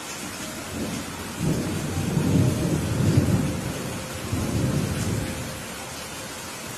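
Steady rain with a roll of thunder. The rumble builds about a second in, peaks, rolls on in a second swell and fades before the end, leaving the rain.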